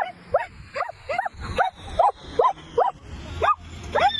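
An animal giving a rapid, even series of short yelping calls, about two and a half a second, each rising then falling in pitch.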